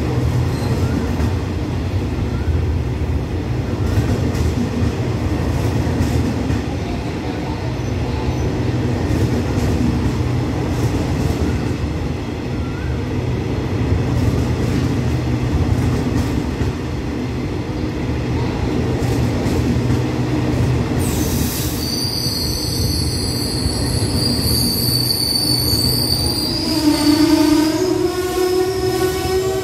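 Passenger coaches of an express train rolling slowly past the platform with a steady low rumble. About two-thirds of the way through, a high, ringing wheel or brake squeal sounds for about five seconds. Near the end it gives way to a lower, drawn-out squealing tone.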